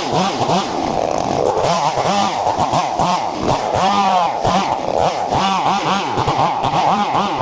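A small engine running, its pitch rising and falling over and over in quick surges.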